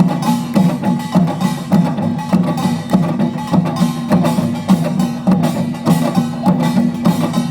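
Utdari samulnori percussion ensemble playing: small kkwaenggwari gong, jing gong, janggu hourglass drum and buk barrel drum struck together in a fast, dense rhythm.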